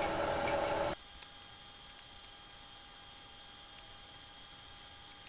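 Steady electrical hum with thin high whining tones. A louder hiss cuts off abruptly about a second in, and a few faint ticks follow.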